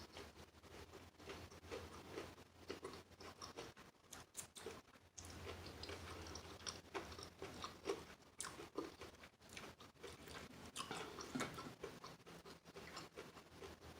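A person chewing crunchy food close to the microphone: quiet, irregular crunches and wet crackles in a steady run of bites.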